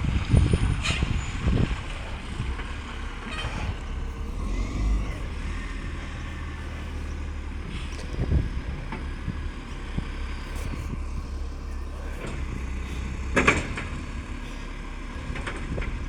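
Garbage truck's diesel engine running steadily, with a few sharp clunks and knocks, the loudest about thirteen and a half seconds in. The truck has an exhaust leak.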